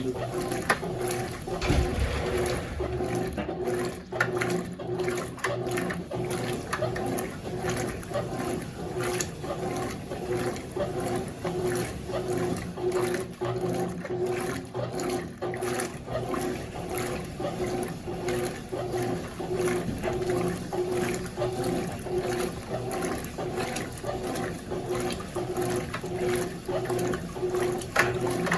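Consul CWS12 washing machine washing a load of jeans, water and clothes sloshing in an even, repeating rhythm, with a clothes dryer running alongside as a steady hum.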